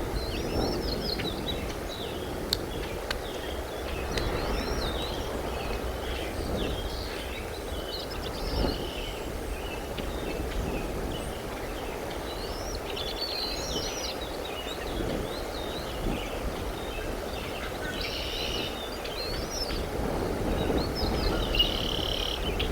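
Birds chirping: many short high chirps and rising and falling whistles, over a steady low rumble.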